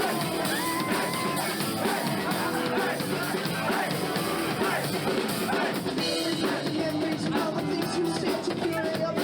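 Live rock band playing a song at full volume: drum kit, electric guitars, bass and keys, with a sung vocal line over them.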